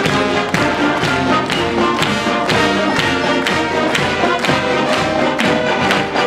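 High school marching band playing, with brass holding sustained chords over percussion hits about twice a second.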